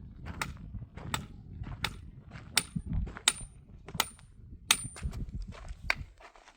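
A steady series of sharp knocks or strikes, about one every 0.7 seconds, several with a brief metallic ring, over a low rumble that fades near the end.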